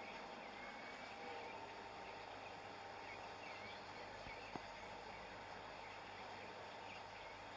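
Faint background ambience: a steady hum and hiss with scattered short, high bird-like chirps, and a single sharp click about halfway through.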